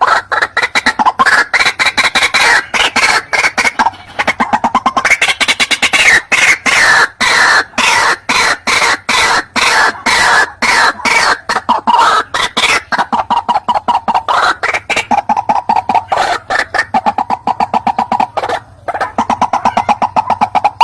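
White-breasted waterhen calling: a long, fast series of short repeated notes, several a second, over a faint low hum. It is a recorded lure call played to attract waterhens into a trap.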